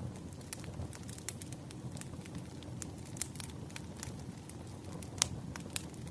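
Burning firewood: irregular crackles and pops over a low, steady rumble of the fire, with one louder pop a little past five seconds in.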